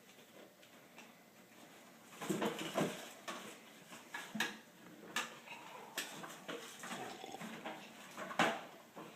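Plastic toy garbage trucks being handled and played with: scattered light knocks and clicks of hard plastic parts, a cluster about two seconds in and then single sharp clicks every second or so, the loudest near the end.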